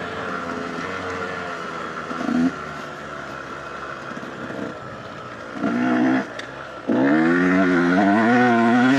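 Dirt bike engine running at part throttle, blipped briefly about two seconds and again about five and a half seconds in. Near seven seconds it is opened up and held at higher revs, its pitch wavering up and down.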